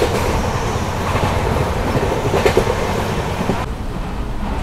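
Passenger train running along, heard from inside the coach: a steady rumble and rattle, with a couple of wheel knocks about halfway through.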